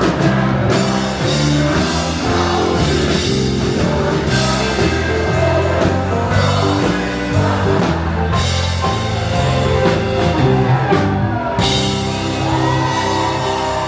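Rock music with a singer over drums, bass and guitar, playing steadily.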